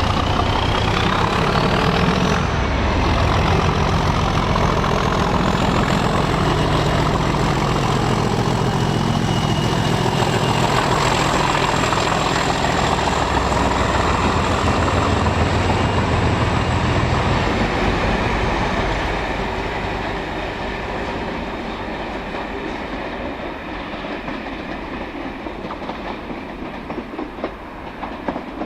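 Class 37 diesel locomotive with its English Electric V12 engine working hard as it pulls away, and a turbocharger whistle that rises in pitch over the first few seconds, then holds steady. From about two-thirds of the way in, the engine fades as the train draws away.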